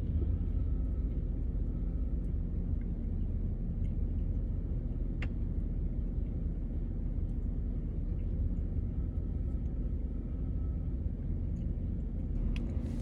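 Steady low rumble of a car idling, heard from inside the cabin, with a single click about five seconds in.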